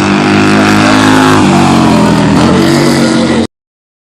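Racing motorcycle engines running at high revs, the pitch dropping about one and a half seconds in and again near two and a half seconds. The sound cuts off suddenly about three and a half seconds in.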